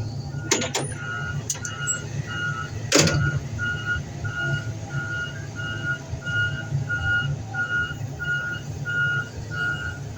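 Reversing alarm of a heavy vehicle beeping steadily, about three beeps a second, over a diesel engine's low rumble. A few sharp metal knocks come in the first seconds, the loudest about three seconds in.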